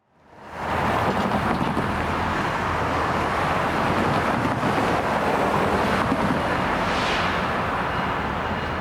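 BNSF freight train on the move: steady diesel locomotive rumble with the noise of the train rolling on the rails, coming in over the first second.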